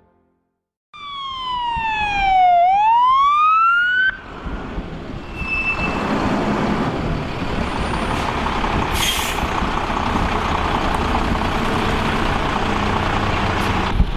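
Emergency-vehicle siren sweeping down and then back up in pitch for about three seconds, cutting off abruptly. After it, a steady rumbling noise with a short hiss about halfway through.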